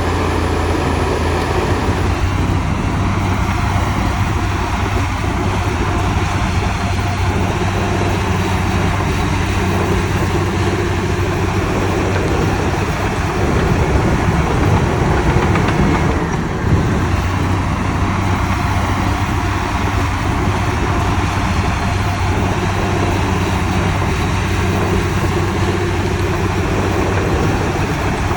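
Heavy diesel earthmoving machinery running steadily under load. It gets a little louder about halfway through.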